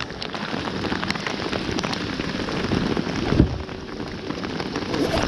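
Steady rain falling on the lake water around a kayak, with a plastic bait bag crinkling as it is handled and one sharp knock about three and a half seconds in.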